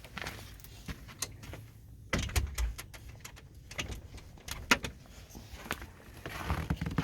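Scattered clicks and knocks of a house door being handled and footsteps, with a few low thumps about two seconds in and the sharpest knock just under five seconds in.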